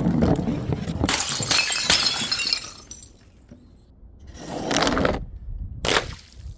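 Glass bottles smashing and shattering, with a long crash of breaking glass and shards over the first two and a half seconds. A second crash follows near the end, then one sharp smash.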